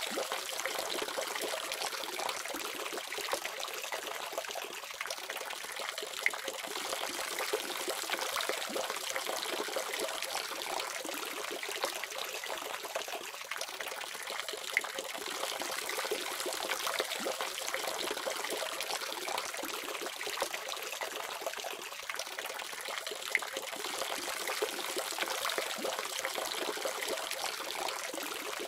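Water running steadily from a tap, splashing and trickling evenly, with small splashes here and there.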